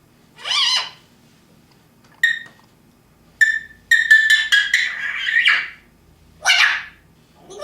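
African grey parrot vocalizing: a few separate squawk-like calls, short whistled notes, and a rapid run of pitched beeping notes lasting over a second, a little past the middle.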